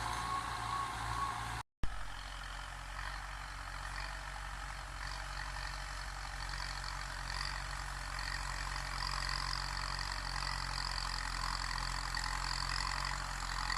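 Kubota M9540 tractor's four-cylinder diesel engine running steadily. The sound cuts out completely for a split second just under two seconds in, and a steady high hiss builds from about five seconds on.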